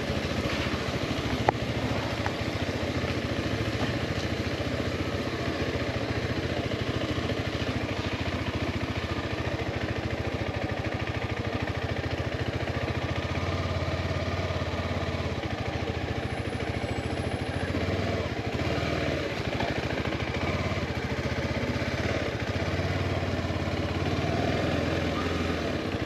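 Motorcycle engine running steadily at low, even speed, as heard from the moving bike. A single sharp click about a second and a half in.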